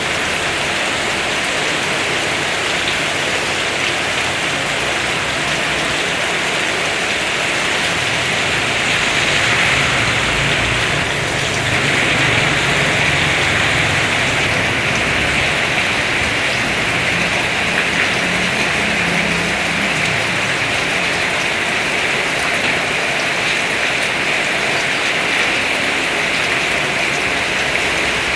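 Heavy rain pouring down, a steady dense hiss that swells a little about eight seconds in. A faint low rumble runs underneath for several seconds in the middle.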